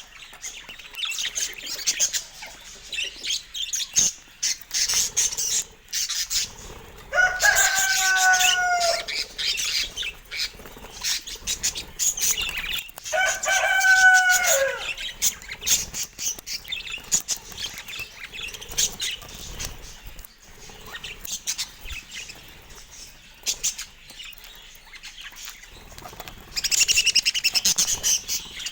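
Budgerigars chattering with quick chirps and clicks, with two longer drawn-out calls that fall slightly in pitch about seven and thirteen seconds in, and a dense burst of chirping near the end.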